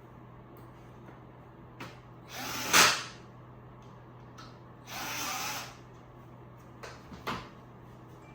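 Power drill driving screws into the bed-frame boards in two short runs, the first building to a loud burst as the screw seats, with a few sharp knocks of wood and parts in between.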